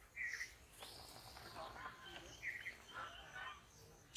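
Birds chirping: a few short, high calls over a quiet outdoor background.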